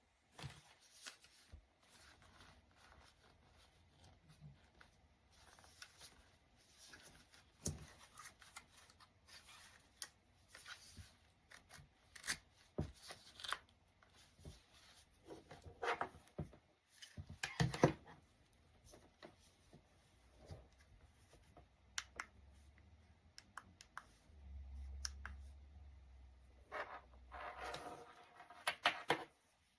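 Handling noises: irregular rustling and scraping with many scattered sharp clicks, busiest near the middle and again near the end.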